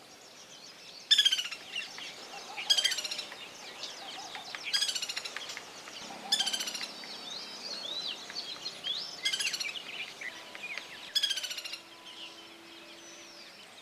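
White-naped woodpecker calling: about six short, tinny, high-pitched rattles a second or two apart, each phrase dropping in pitch. Softer chirps of other birds come between them.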